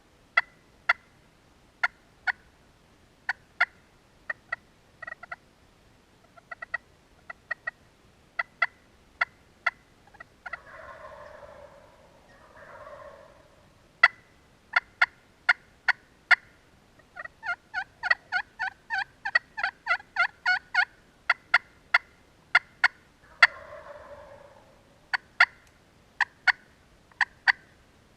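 Wild turkey calling: runs of short, sharp yelps and cutts, at times about four a second, with a longer rolling gobble breaking in twice, once midway and once later on.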